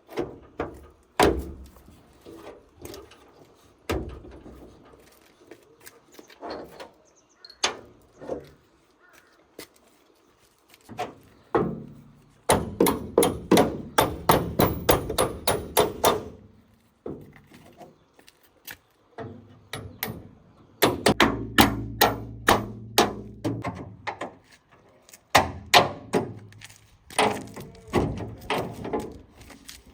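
A series of sharp knocks and taps, some coming in quick runs of several a second, with pauses between.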